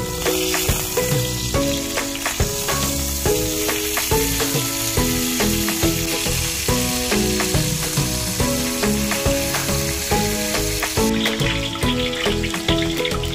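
Chicken pieces sizzling as they pan-fry in hot oil in a cast-iron skillet, with background music playing a melody over it. About eleven seconds in it changes to sausages bubbling and sizzling in deep oil in a wok.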